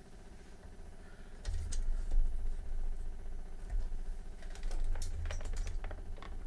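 Handling noise from a desoldering station unit being turned and moved by hand: scattered light clicks and taps with low thuds. It starts about a second and a half in and picks up again around five seconds.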